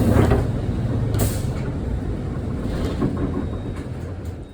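Low, steady rumble of a large vehicle, fading slowly, with a brief hiss about a second in.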